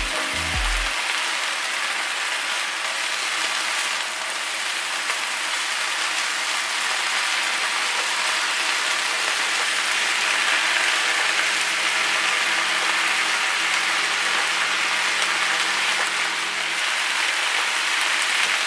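Marinated chicken strips, broccoli, bell pepper and onion frying in an oiled non-stick pan: a steady sizzling hiss.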